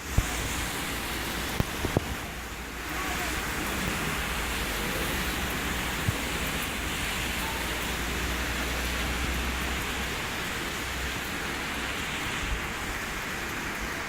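Heavy rain pouring down in a steady hiss, with a few sharp knocks in the first few seconds and another about six seconds in.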